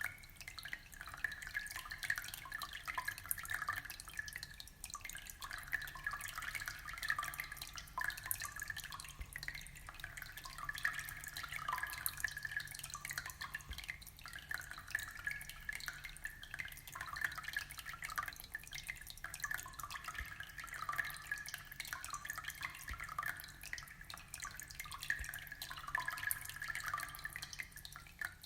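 Aquarium water trickling and bubbling steadily, a continuous stream of small drips and plinks.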